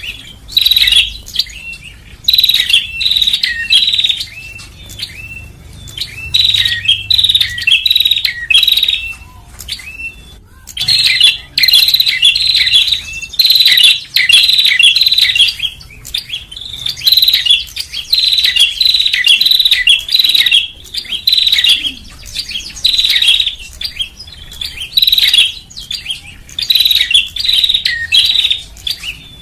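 Prenjak (prinia) calling: rapid runs of sharp, high chirps in phrases of a second or two, separated by short pauses and repeating over and over. It is a call played as a lure for small birds.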